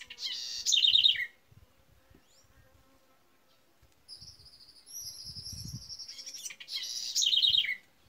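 Bird song in two loud phrases, about a second in and again near the end, each a harsh rasping burst that ends in a quick falling run of notes. A thin high whistle is held between the two phrases.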